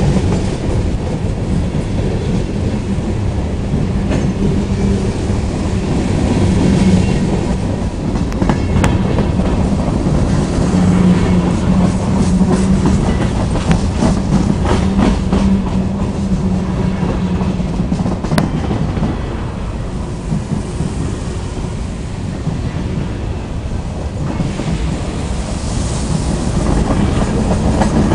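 Empty freight cars of a rock train rolling past, wheels clicking over the rail joints with a steady rumble. A low hum comes and goes, and a few sharp clicks stand out.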